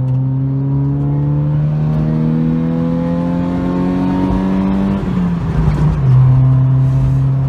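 Honda Civic four-cylinder engine accelerating through a five-speed manual, its pitch climbing steadily as the revs rise. About five seconds in the revs drop at a gear change, then the engine runs on steadily at lower revs.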